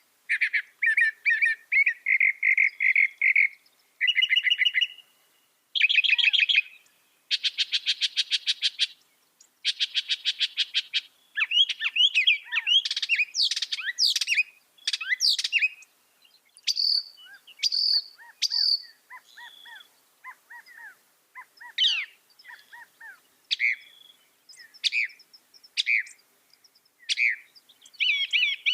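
A mockingbird singing a long, varied medley of phrases: fast trills, rising and falling whistled sweeps and sharp notes, with many phrases repeated two or three times before it switches to the next.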